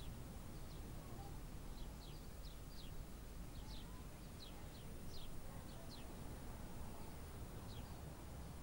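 Birds chirping: short, high, quickly falling notes, a few each second, over a low steady rumble.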